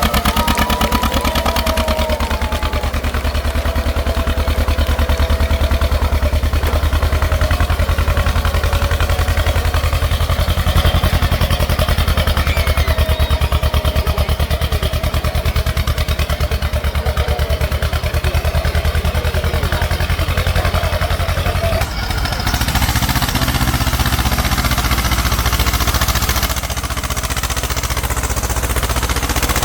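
Tractor engine running, a rapid, even clatter of pulses; the sound changes abruptly about two-thirds of the way through.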